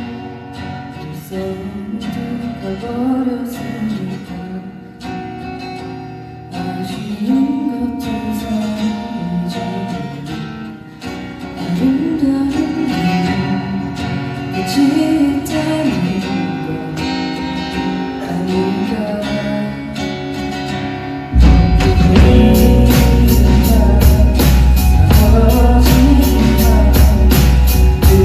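Live rock band playing a ballad, with a singer over guitars and keys. About 21 seconds in, the full band comes in much louder with bass and a steady drum beat.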